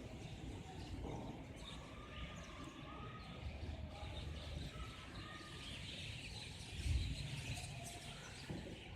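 Birds chirping over a steady low rumble. The rumble swells briefly about seven seconds in.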